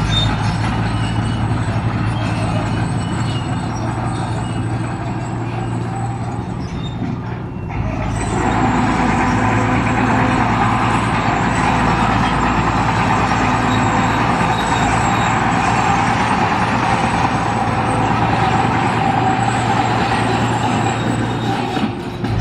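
Heavy construction machinery engines running steadily under load, a low drone with dense mechanical noise above it. About eight seconds in the sound switches abruptly to a louder, brighter machine noise.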